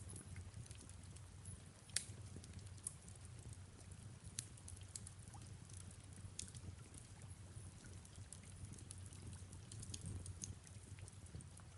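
Faint fireplace crackle with soft rain: scattered small pops, the sharpest about two seconds in, over a low steady rumble.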